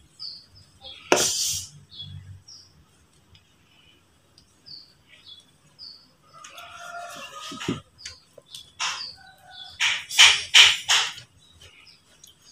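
A small bird chirping: short high chirps repeated every second or so, with a few louder, harsher bursts near the end.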